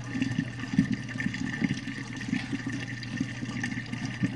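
Whirlpool dishwasher draining: the drain pump hums steadily while water sloshes irregularly out of the tub.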